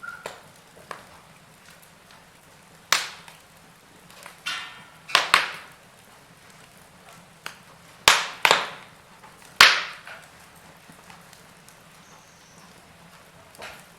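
Wood fire crackling in a fireplace: scattered sharp pops, about half a dozen loud ones, with a short rapid sputter about four and a half seconds in and small ticks between.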